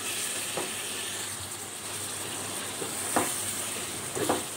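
Raw chicken pieces sizzling in hot oil and onion-spice masala in a metal kadhai as they are stir-fried (bhuna) to brown. A steady sizzle with a few short scrapes of the spatula against the pan.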